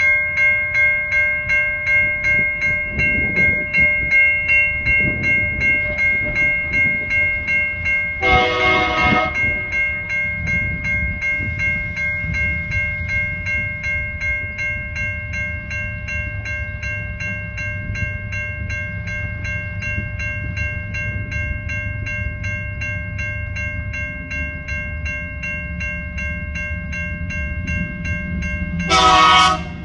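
Level crossing warning bell ringing steadily, pulsing about twice a second, while two TasRail diesel locomotives haul empty coal wagons closer. The locomotive horn sounds one blast of about a second about a third of the way in, the engines' low rumble builds as the train nears, and a second short horn blast comes near the end.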